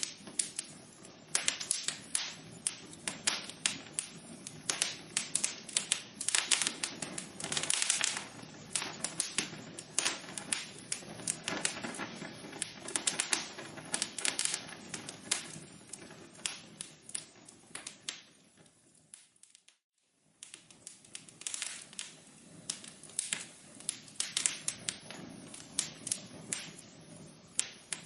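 Wood fire crackling and popping in a fireplace, with dense irregular snaps over a low hiss. About two-thirds of the way through it fades briefly to silence, then the crackling picks up again.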